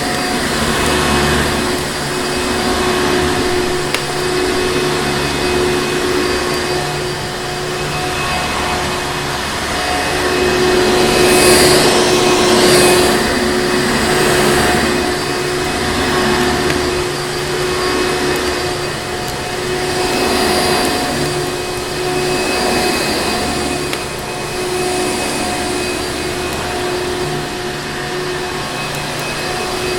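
Vacuum cleaner running continuously: a steady motor hum over an airy rush, swelling and easing every few seconds.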